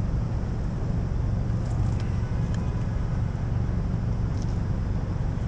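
Subaru BRZ driving along: a steady low rumble of engine and road noise with an even hiss of passing air over it.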